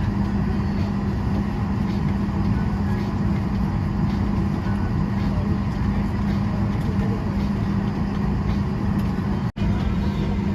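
Steady cabin hum and rush of air inside a Boeing 737 airliner parked at the gate during boarding, with faint passenger chatter underneath. The sound cuts out for an instant about nine and a half seconds in.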